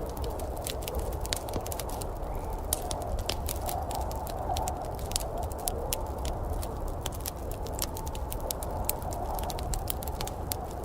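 Wood fire crackling in a fireplace: many sharp, irregular pops and snaps over a steady low rush.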